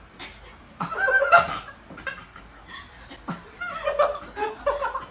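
People laughing in short bursts of chuckles, loudest about a second in and again near the end.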